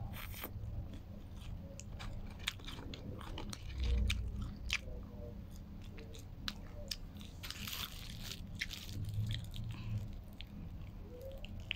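A person chewing and biting food close to the microphone, with scattered crisp clicks and crunches: eating a shawarma wrap.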